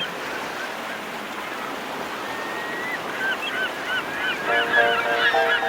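Birds calling in quick, repeated short cries, over a steady wash of sea surf. Music with evenly repeated notes comes in near the end.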